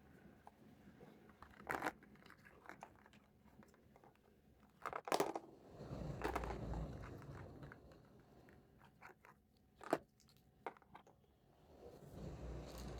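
Small plastic toy kitchen pieces and packaging handled up close: scattered clicks and crinkles, with a cluster of sharp clicks about five seconds in, another near ten seconds, and soft low thuds between.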